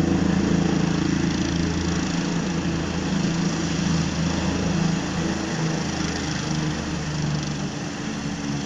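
Helicopter running: a steady, low mechanical drone that eases slightly in level about halfway through.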